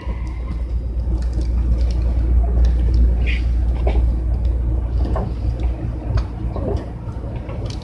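Tobu 60000 series electric train standing at the terminal platform, its on-board equipment giving a steady low hum and rumble, with scattered light knocks and clicks.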